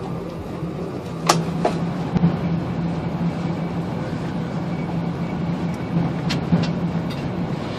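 Train at a station platform: a steady low engine hum under a wash of noise, with a few sharp clicks, twice near the start and twice near the end.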